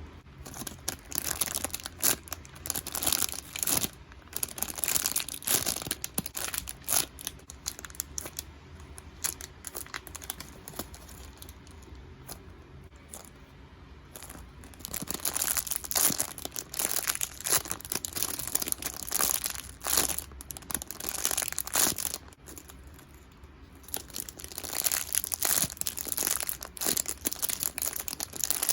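Plastic packaging crinkling and rustling as it is handled, in bouts of crackling with quieter pauses between.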